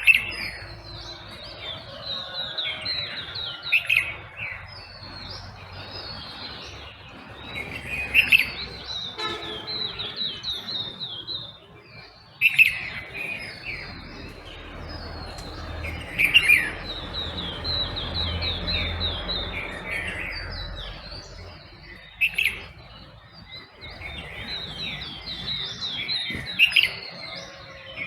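Dawn chorus of several birds chirping and trilling together, with one louder call repeated roughly every four seconds. A faint low rumble rises and fades in the middle.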